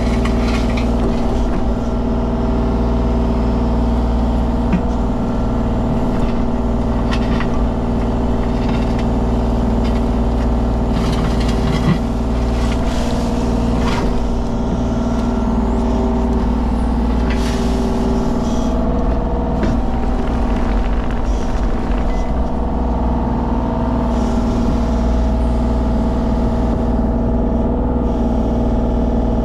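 Mini excavator's diesel engine running steadily at working speed while it digs, with scattered short knocks and scrapes over the top.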